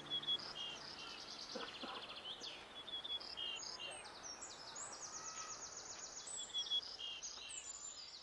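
Small songbirds calling and singing: many short high chirps and fast trills overlapping, over faint outdoor background hiss.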